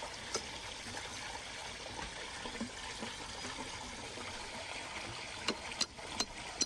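Water trickling and flowing steadily, with a few light clicks near the end.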